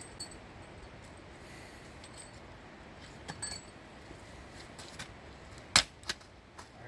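An axe striking wood while splitting kindling: light clinks and clicks, then one sharp, loud crack near the end and a smaller knock right after.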